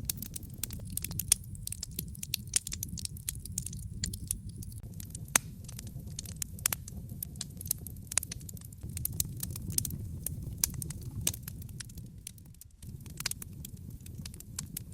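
Wood fire crackling in a fireplace: frequent irregular sharp pops and snaps over a steady low rumble of the burning logs, which dips briefly near the end.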